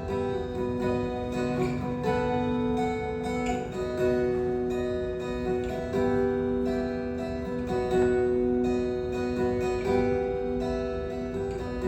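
Acoustic guitar strumming the intro of a song, with sustained chords changing about every two seconds.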